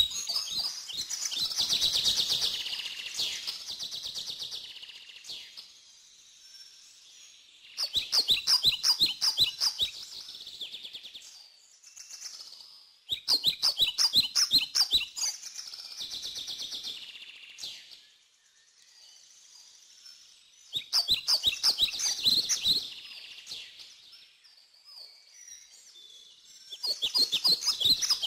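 A songbird singing: five bursts of rapid, high chirping notes, each lasting two to three seconds, with pauses of a few seconds between them.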